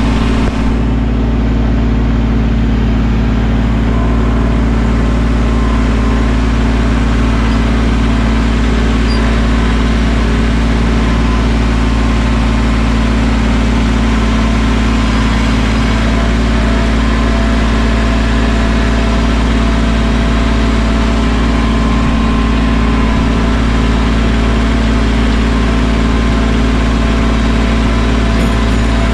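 Mahindra 1626 sub-compact tractor's three-cylinder diesel engine running steadily at close range, with an even, unchanging drone.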